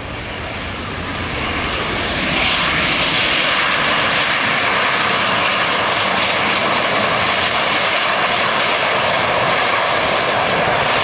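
Jet airliner landing close by: its engine noise swells over the first couple of seconds, then holds as a loud, steady roar, which the spotter calls full reverse thrust.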